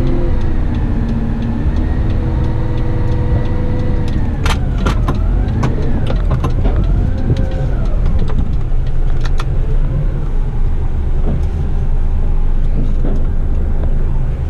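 Eight-wheeler rigid truck's engine running under way with a steady low rumble, its pitch dipping and climbing again a few times about four to eight seconds in as it changes gear, with a few sharp clicks.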